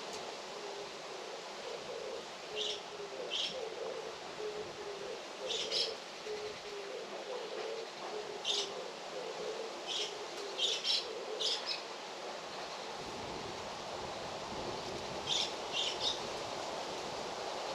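Small songbirds chirping: short, high chirps, singly and in quick groups of two or three, over a steady outdoor hiss.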